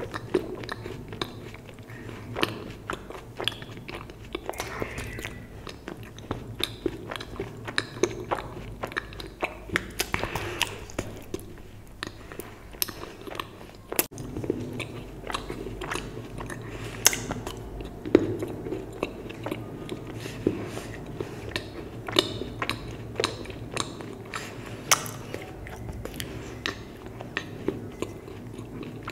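Close-miked biting and chewing of a milk chocolate bar: irregular sharp snaps and wet mouth clicks, with louder snaps about halfway through and again a few seconds later.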